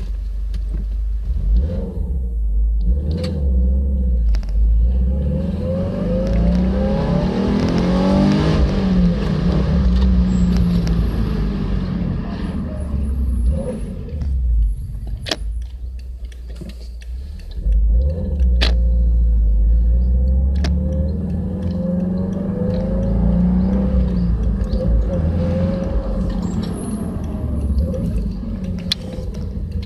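Subaru Legacy BL5 GT's turbocharged flat-four running under way, its pitch climbing as the car accelerates about a quarter of the way in and again past the middle, over a steady low rumble. The engine has had its low-rev, mid-load valve timing remapped and is being driven in eco mode.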